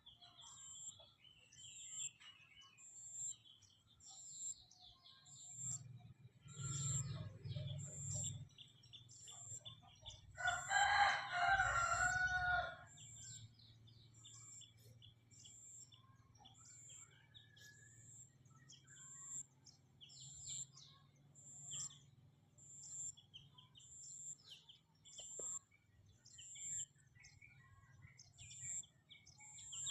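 A rooster crows once loudly about a third of the way through, and a second crow begins right at the end. Between the crows, small birds chirp and twitter steadily, and a high pip repeats about once a second.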